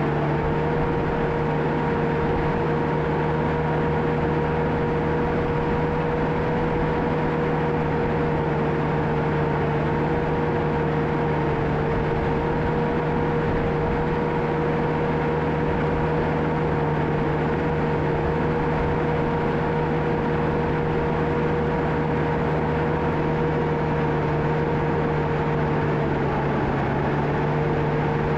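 John Deere 650K crawler dozer's diesel engine running steadily under work, with a constant whine over the engine noise. The pitch dips briefly near the end, then recovers.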